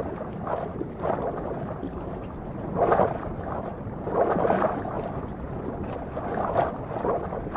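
Water sloshing and wind noise, rising in irregular swells every second or so.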